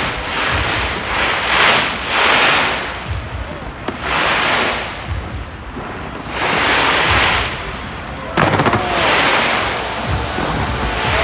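Fireworks display going off: a run of low booms with repeated hissing swells, each about a second long, and a sharp bang about eight seconds in.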